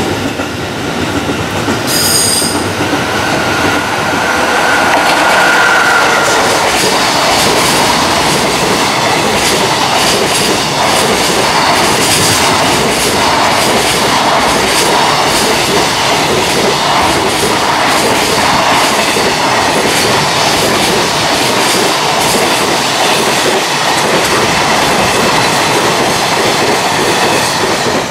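Long JR Freight container train passing at speed, its wagon wheels clattering over the rail joints in a steady run of clicks. A high steady whine sounds over the first few seconds, with a brief high squeal about two seconds in. The clatter drops away at the very end as the last wagon passes.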